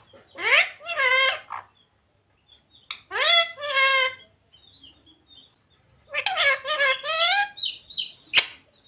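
Ring-necked parakeet talking: three short high-pitched phrases of mimicked speech with quick rising and falling pitch, spaced a second or two apart. A single sharp click comes near the end.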